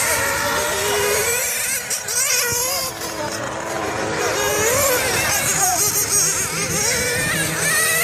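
Several nitro-powered radio-controlled race cars running around the track together, their small engines whining and revving up and down as they brake and accelerate.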